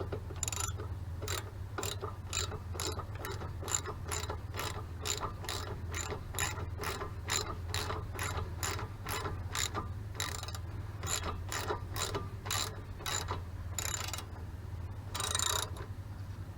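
Hand ratchet wrench clicking in a steady rhythm, about two clicks a second, as a bolt is turned, with a longer rasping stretch near the end, over a steady low hum.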